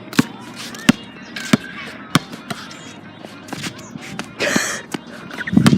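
A basketball being dribbled on a hard court, about one bounce every two-thirds of a second, stopping a little over two seconds in. A short rushing noise follows about four and a half seconds in, and a thud comes near the end.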